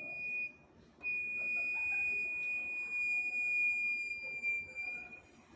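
Royal Enfield Classic 350 front disc brake squealing as the front wheel turns: one steady high-pitched squeal that breaks off briefly and then runs on until near the end. The squeal comes from a front wheel that is binding and jamming on a brand-new bike.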